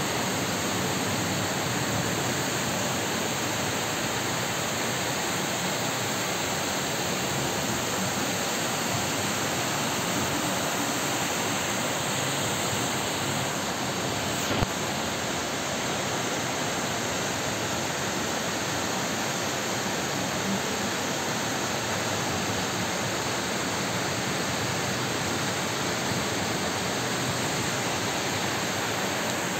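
Steady hiss of a heavy rain downpour, with one short sharp click about halfway through.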